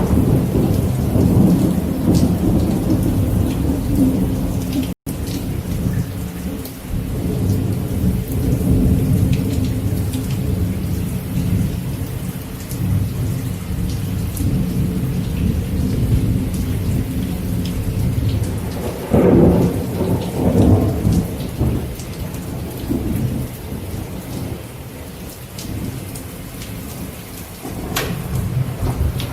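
Steady rain with a deep continuous rumble that swells louder about twenty seconds in. The sound drops out for an instant about five seconds in, at an edit splice.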